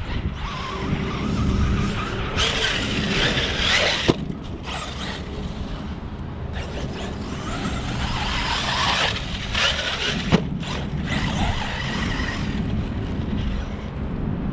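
Arrma Kraton 6S brushless electric RC truck running hard off-road: the motor whines and the tires spin and throw dirt in two longer bursts. Two sharp knocks come about 4 and 10 seconds in.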